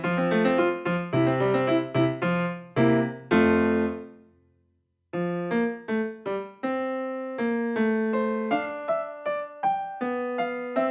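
Background piano music. A phrase ends on a held note that fades out about four seconds in, and after a short silence the piano starts again with a slower run of notes.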